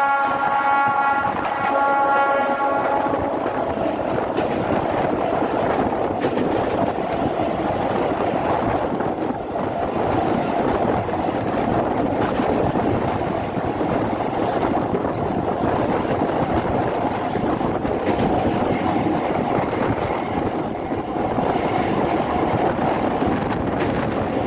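A MEMU electric train's horn sounds and cuts off about three seconds in. Then the train runs on over a steel truss bridge, a steady rumble of wheels on rails heard from an open doorway.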